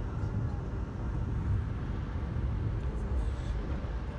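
Steady low rumble of the Amtrak Maple Leaf passenger train in motion, heard from inside the coach: wheels running on the rails and the car's running noise.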